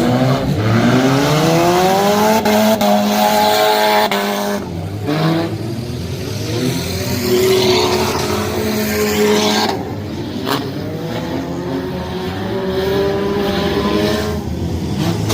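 Several race car engines running hard, rising in pitch as the cars accelerate, holding, then easing off and climbing again several times.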